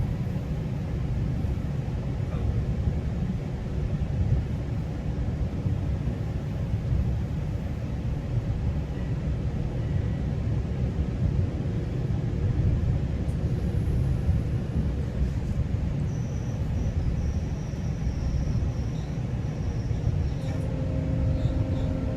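Steady low rumble of a GO Transit commuter train running along the track, heard from inside a passenger coach, with a faint high whine for a few seconds past the middle.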